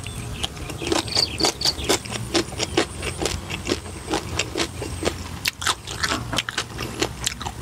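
A person chewing a mouthful of green papaya salad close to the microphone: a string of short crisp crunches and wet mouth smacks, several a second.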